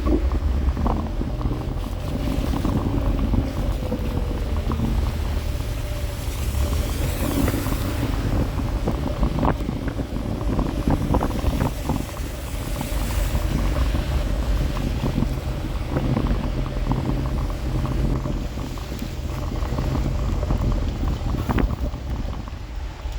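Wind buffeting the microphone over a low rumble while riding an electric scooter, with scattered short clicks and rattles.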